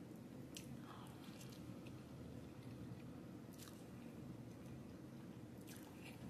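Faint chewing and wet mouth sounds of a person eating pasta, with a few short smacks and clicks, over a low steady hum.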